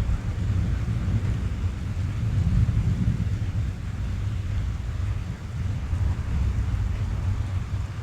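Rain drumming on a car roof, heard from inside the cabin as a steady, muffled low rumble with a fainter hiss above it.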